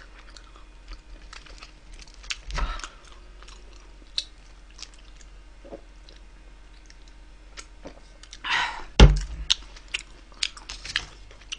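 Close-up chewing and crunching of food, with scattered small clicks. A louder rustle and a sharp thump come about nine seconds in.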